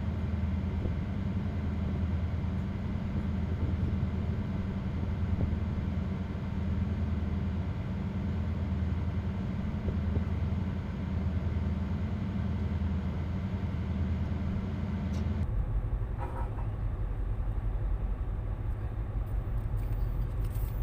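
A tugboat's diesel engine running steadily, a low drone. About fifteen seconds in, the sound abruptly becomes deeper and duller.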